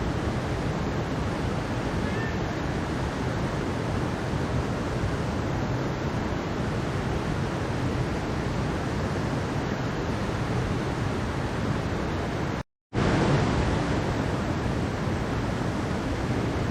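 Mountain stream rushing in a steady, even wash of water. About three-quarters of the way through, the sound cuts out completely for a fraction of a second, then comes straight back.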